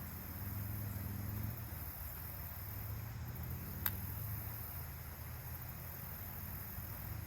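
Steady low outdoor rumble with a faint hiss, and one sharp click about four seconds in.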